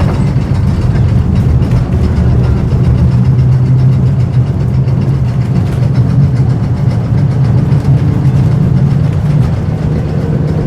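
Vintage electric tram running along the line: a steady low hum from the car with a constant light rattle and clicking of the wheels and body.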